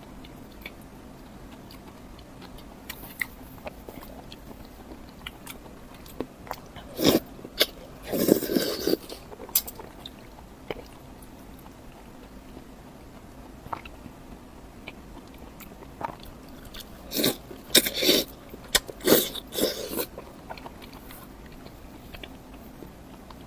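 Close-miked eating: scattered bites and crunchy chewing, with louder bursts of crunching about a third of the way in and again about three-quarters through.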